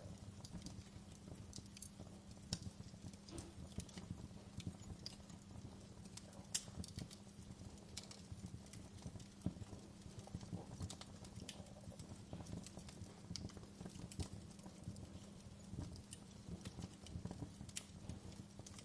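Wood fire crackling in a fireplace: irregular sharp pops and snaps over a low, steady background.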